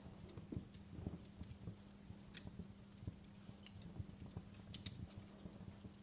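Wood fire crackling in a fireplace: irregular soft low pops with occasional sharp high snaps.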